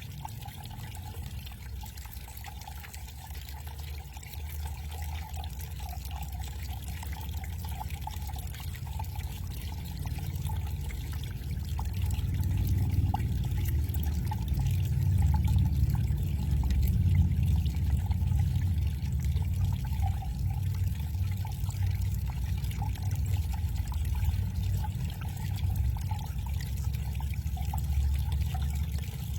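Backyard garden waterfall running, water splashing and trickling into its pool, growing louder about midway.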